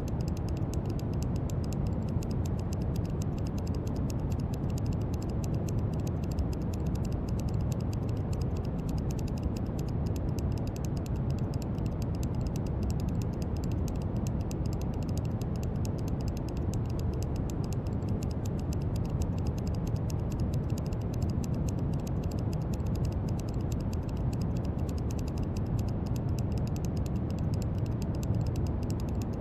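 Steady brown noise: a deep, even rushing hiss, strongest in the bass, with a faint fine crackle in the treble.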